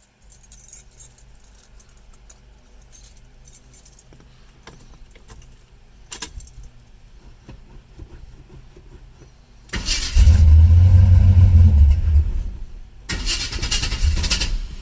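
Keys jingling and clicking for about ten seconds, then the 1976 Chevrolet Camaro's engine is cold-started. There is a loud burst of about two and a half seconds, a short break, and a second loud burst of about a second and a half.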